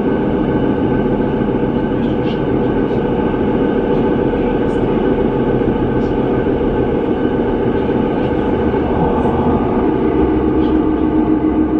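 A metre-gauge passenger train running, heard from inside the carriage: a steady rolling noise with several held tones. About ten seconds in, one tone grows stronger and the sound begins to pulse evenly.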